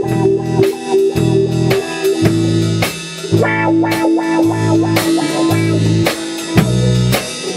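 Rock band playing an instrumental passage: a repeating electric guitar riff over bass and drum kit, with steady drum strokes.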